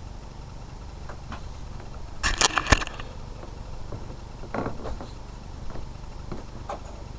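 Clicks and rustling of small objects being handled, loudest in a quick cluster about two seconds in, with a few fainter clicks later.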